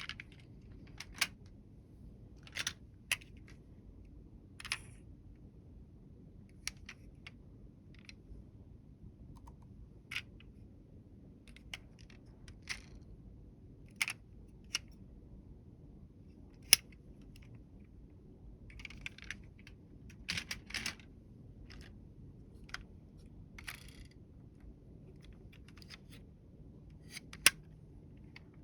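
Irregular light clicks and taps of small hard toy vehicles being handled and set down, roughly one a second, with a quick flurry of clatter about two-thirds of the way in and two sharper snaps.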